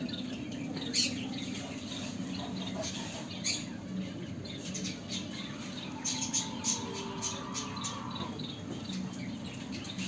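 Small cage birds calling with short, high chirps, scattered throughout and thickest about six to eight seconds in, over a steady low hum.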